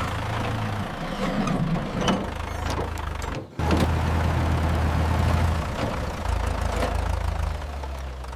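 An engine running steadily with a low hum, breaking off for a moment about three and a half seconds in and then running on.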